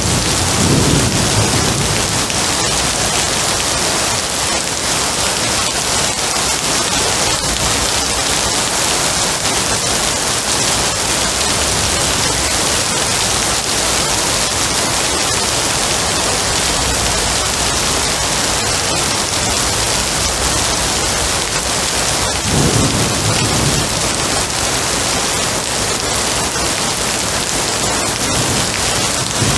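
Steady heavy rain falling, with low rolls of thunder rumbling in at the start and again about three quarters of the way through.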